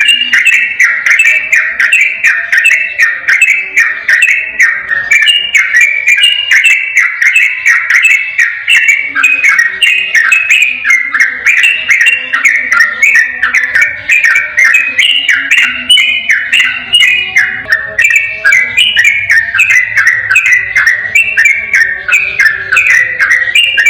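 Sooty-headed bulbul (trucukan) singing its fast 'ropel' song: a loud, unbroken stream of quick bubbly whistled notes, several a second, with no pause.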